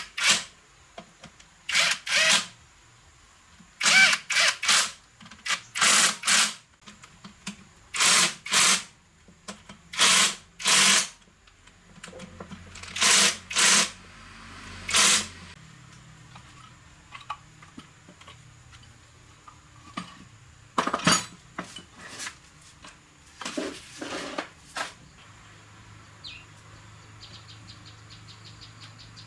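A power tool, drill-like, run in short bursts of about half a second, often in quick pairs, roughly every two seconds, then a few more after a pause. A low steady hum comes in near the end.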